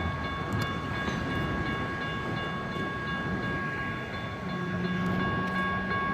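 Grade-crossing warning signals' GS Type 1 electronic bells ringing steadily while the crossing is activated without a train, a malfunction. Road traffic passes, and a low hum comes in about four and a half seconds in.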